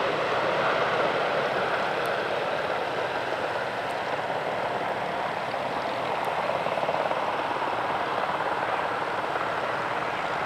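Bell Boeing V-22 Osprey tiltrotor's rotors and engines giving a steady, loud rushing noise.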